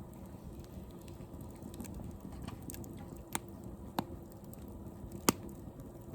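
Campfire crackling, with a few sharp pops; the loudest comes about five seconds in.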